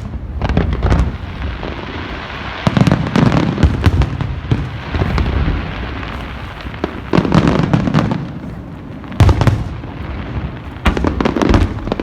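Fireworks going off in repeated volleys of sharp bangs, several clusters a couple of seconds apart, with a noisy hiss between volleys.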